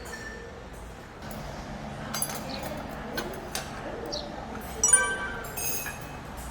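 Tableware clinking: scattered sharp clicks of dishes and utensils, with one louder ringing clink about five seconds in, over faint background voices.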